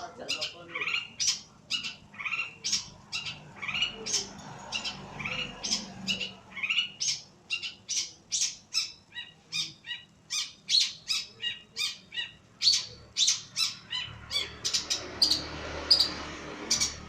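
Long-tailed shrike (pentet) giving a long run of short, sharp calls, about two to three a second, coming faster near the end.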